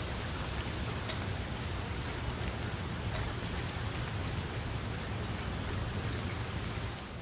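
Steady rain falling, an even hiss with scattered individual drops ticking out now and then, over a constant low rumble. The sound drops a little in level near the end.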